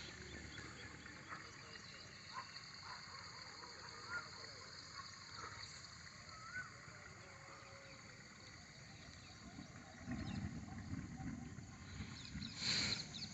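Faint outdoor ambience: a steady high-pitched insect chorus with scattered faint chirps, and a low rumble that comes up about ten seconds in.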